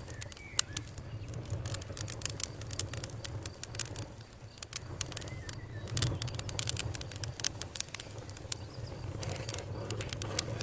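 Campfire crackling: irregular sharp pops and snaps over a low steady rumble, with a flurry of pops about six seconds in.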